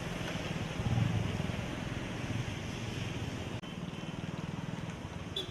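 Road traffic: vehicle engines running under a steady hiss, swelling about a second in, with a short horn toot near the end.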